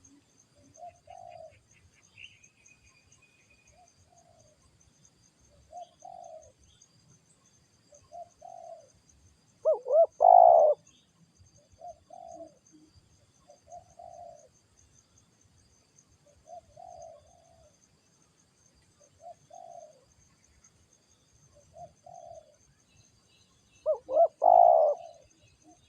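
Spotted doves cooing: soft coo notes repeat about every two seconds, and a much louder, closer coo phrase comes about ten seconds in and again near the end.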